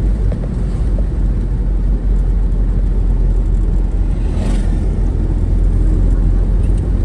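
Moving road vehicle: a steady, loud low road-and-wind rumble, with a brief whoosh about four and a half seconds in.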